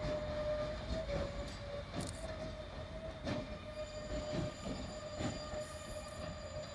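Norfolk Southern Safety Train rolling slowly past: a steady wheel squeal, with irregular knocks from the wheels and cars.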